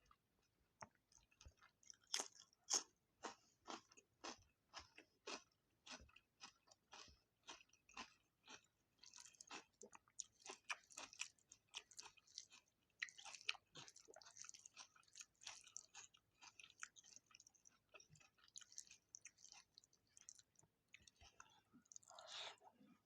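A person chewing food close to the microphone: a steady run of short wet clicks and crunches, about two to three a second, with a longer mouth sound near the end.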